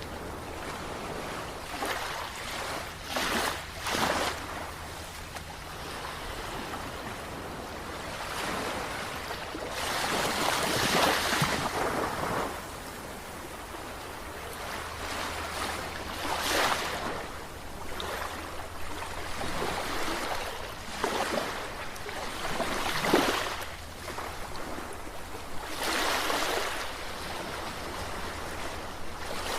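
Sea waves washing and breaking, swelling louder every few seconds in irregular surges, the biggest about a third of the way in and again near the three-quarter mark.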